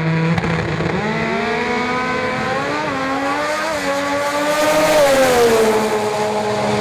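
Twin-turbo VQ35 V6 drag car accelerating hard down the strip. Its engine note climbs through the gears with brief dips at the shifts, is loudest about five seconds in, and then falls in pitch near the end.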